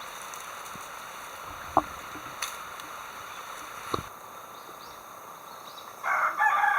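A steady outdoor hiss with two sharp knocks, then near the end a rooster starts crowing loudly, one long patterned crow.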